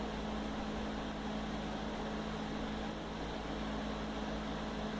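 Steady machine hum with a constant low tone and an underlying rumble.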